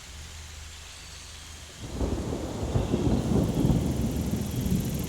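A low hum, then about two seconds in a loud, deep rumbling with a crackling texture sets in and keeps going, like thunder.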